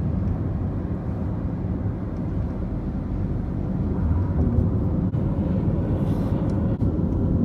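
Car driving along, its steady road and engine rumble heard from inside the cabin.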